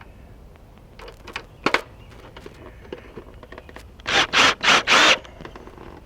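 A few light clicks and knocks, then four quick rasping scrapes in a row near the end.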